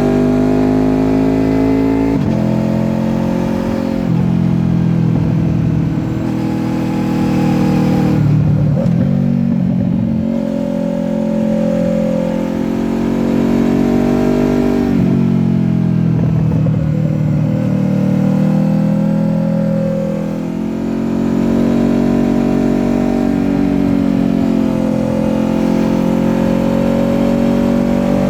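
Honda VFR800F's V4 VTEC engine, fitted with an SC-Project exhaust, heard from onboard while riding. The engine note climbs repeatedly as the rider accelerates, then drops back each time the throttle is closed or a gear is changed.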